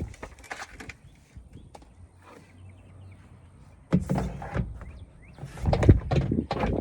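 Knocks, clicks and clatter of parts being handled and fitted while reassembling a vehicle's rear lift door, quieter at first, with a louder run of knocks from about four seconds in.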